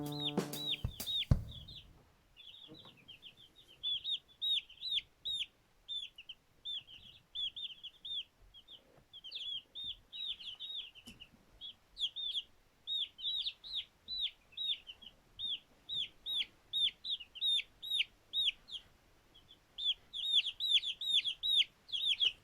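Newly hatched chicks peeping: a dense stream of short, high-pitched, downward-sliding peeps, several a second, from a group of two-day-old chicks.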